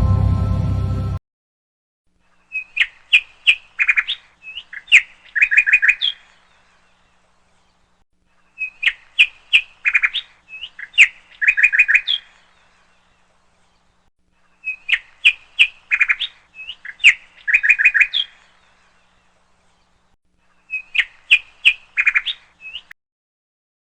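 Bird chirping: the same phrase of quick, sharp chirps and short trills repeats four times, about six seconds apart, with silence in between. A music track ends about a second in.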